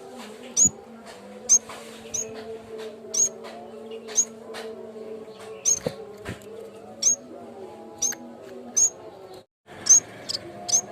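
Yellow-bellied warbler (cikrak bambu) calling: short, sharp, high chirps about once a second, over a faint steady low hum. The sound cuts out briefly near the end.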